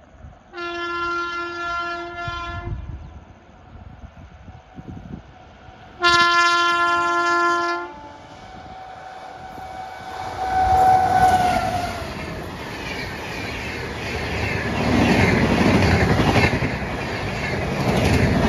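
WAP-7 electric locomotive sounding its multi-note horn twice, each blast about two seconds long. Then the express train comes through at speed: a building rumble with a whine that drops in pitch as the locomotive goes by, followed by the steady clatter of the coaches' wheels over the rail joints.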